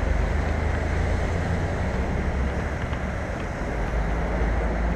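Steady wind rush and low rumble on a helmet-mounted camera's microphone while cycling, with street traffic mixed in.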